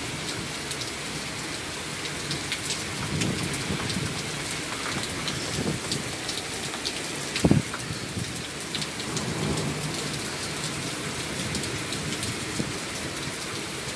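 Heavy rain falling and splashing, with many fine drop patters through a steady hiss. Low rumbles swell up now and then, and a sharp low thump comes about halfway through.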